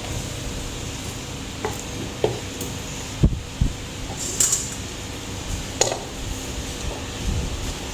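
Kitchen dishes and utensils knocking and clinking now and then, with two dull thumps a little over three seconds in, over a steady low hum.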